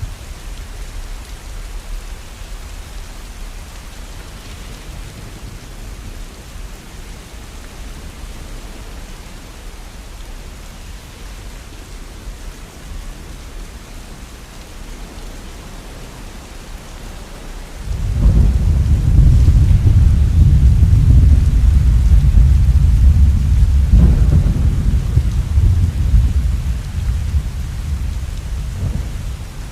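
Steady rain falling, with a low rumble of thunder that breaks in suddenly about two-thirds of the way through, runs loud for several seconds and dies away near the end.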